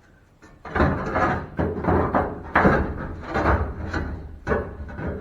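Sheet-metal patch panel rattling, scraping and knocking against the truck's firewall as it is pushed into place for a test fit. The clatter starts about a second in and goes on in irregular bursts.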